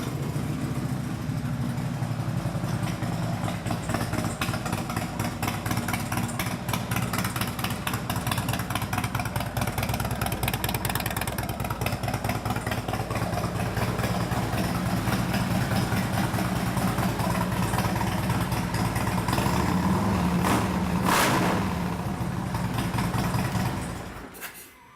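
A 2016 Harley-Davidson Street Glide Special's 103-cubic-inch V-twin idling through a Vance & Hines X-pipe with aftermarket slip-on mufflers. The idle climbs a little faster and louder in the second half, then the sound cuts off near the end.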